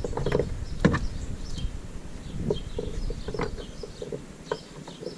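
Scattered light clicks and knocks of a motorcycle tie-down strap and its metal hook being handled, over a low rumble that fades after the first few seconds.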